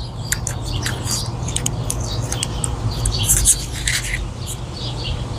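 Microphone handling noise: irregular rustling, scratching and small clicks as the mic is adjusted, over a steady low hum.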